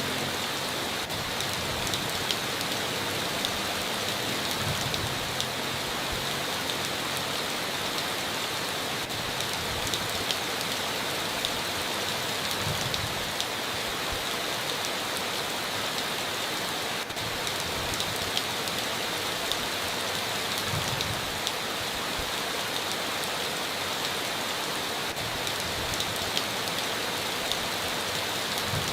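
Heavy rain falling steadily on a tin roof, an even hiss with scattered sharp ticks of individual drops.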